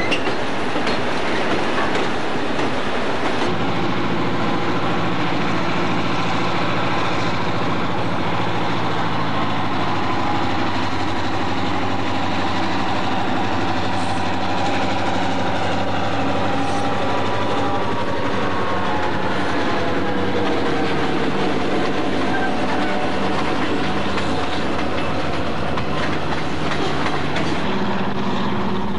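Freight train cars rolling past with wheel clatter, then diesel locomotives running with a steady low engine drone that shifts pitch now and then, cutting to another locomotive near the end.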